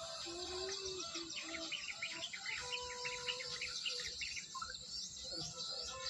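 Many small birds chirping at once in a dense, high-pitched chorus, with a run of louder, quicker chirps in the middle.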